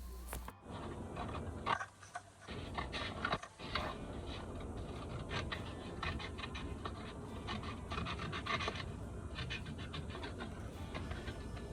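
Paper template being handled, making irregular scratchy rustling and rubbing with many short clicks and scrapes.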